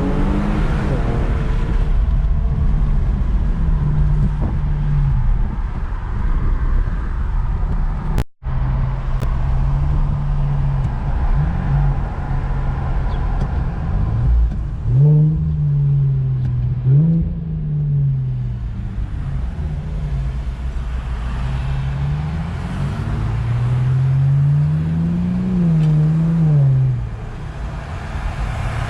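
Infiniti Q50's twin-turbo 3.0-litre V6, with its muffler deleted and AEM intakes fitted, pulling hard under acceleration. The engine note climbs and drops back several times as it goes through the gears, with the sound cutting out briefly about eight seconds in.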